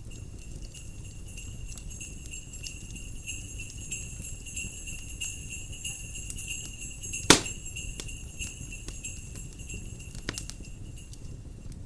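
Jingle bells ringing steadily over a crackling fireplace fire. One loud sharp pop from the fire comes about seven seconds in, and the bells stop near the end.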